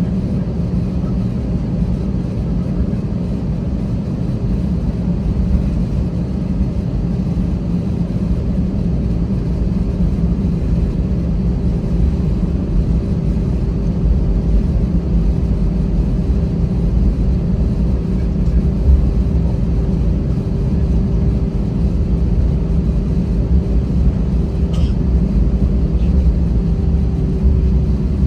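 Airbus A320 cabin noise: steady jet engine hum over a loud low rumble, with the hum dipping slightly in pitch near the end.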